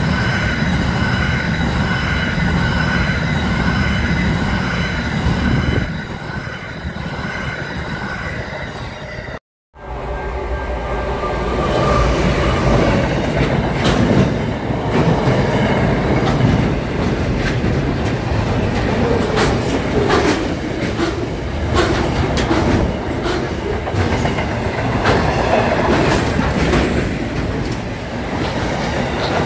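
Freight train wagons passing at speed: a heavy rumble, with a steady high-pitched ringing over the first part. After a short break about nine seconds in, the wagons rumble and clatter past with sharp, irregular clicks from the wheels.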